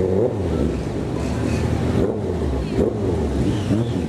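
Motor vehicle engine running, its pitch rising and falling as it revs and eases off, with wind noise on the microphone.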